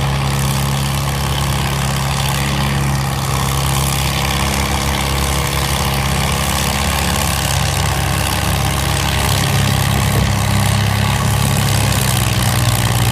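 Farm tractor engine running steadily, growing a little louder about nine or ten seconds in.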